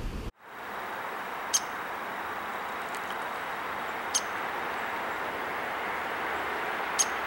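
A bird's short, sharp high call, three times about two and a half seconds apart, over a steady background hiss.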